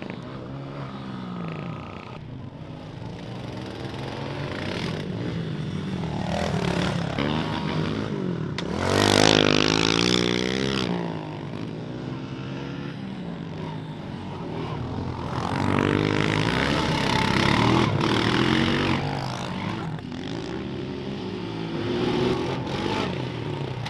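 Dirt bike engines running and revving, their pitch rising and falling as the throttle is worked. The loudest pass is about nine seconds in, with another swell around sixteen to nineteen seconds.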